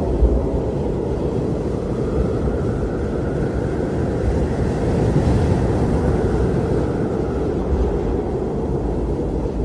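Blizzard wind blowing steadily with a deep rumble, swelling slightly in the middle as a faint higher whistle rises and falls.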